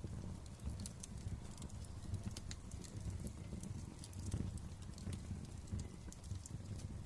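Wood fire in a fireplace crackling: scattered sharp pops and snaps over a low rumble of burning.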